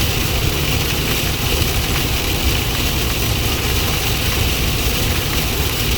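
Heavy rain with big fat raindrops falling, a steady dense patter and rumble.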